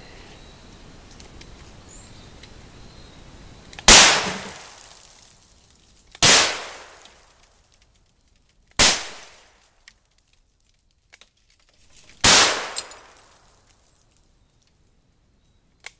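Four shots from a Rossi Circuit Judge .410/.45 Colt revolving carbine, each a sharp blast with a ringing tail of about a second. The first three come about two and a half seconds apart and the fourth after a longer pause.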